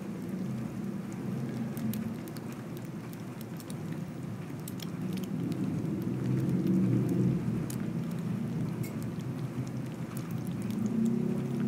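Garlic and scrambled egg sizzling in hot oil in a wok, with scattered crackles and pops, over a steady low rumble. A spatula stirs through the pan now and then.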